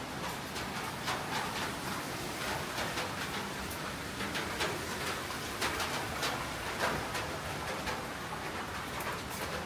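Steady rain hiss with scattered sharp taps of drips and splashes at irregular intervals.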